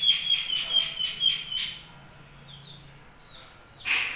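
A bird chirping, a quick run of about eight high notes over the first couple of seconds, then a short, louder sharp sound near the end.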